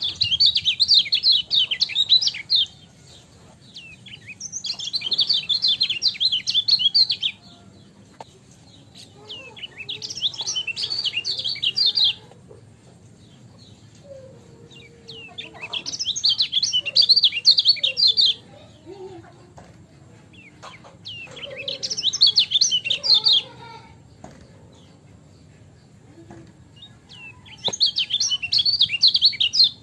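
Kecial kuning white-eye singing rapid, twittering chirpy phrases in six bursts of two to three seconds each, with pauses of a few seconds between them.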